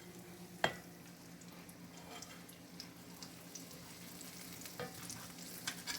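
Vegan nuggets frying in grapeseed oil: a steady sizzle with scattered small crackles. A single sharp knock about half a second in is the loudest sound.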